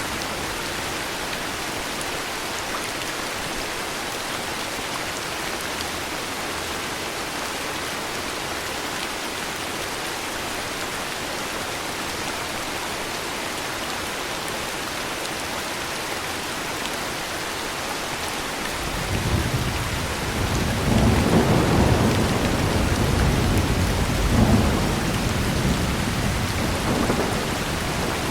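Steady heavy rain falling. About two-thirds of the way through, a long low rumble of thunder swells in, rolling on in waves with a loud peak near the end.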